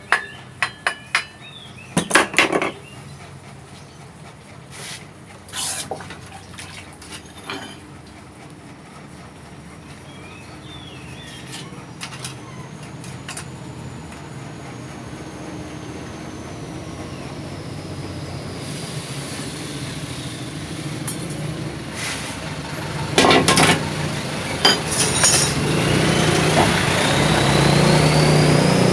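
Sharp metal clinks and knocks from work on a motorcycle exhaust, over a small engine running steadily that grows louder toward the end. A faint rising whine comes in near the end, with a couple more knocks shortly before it.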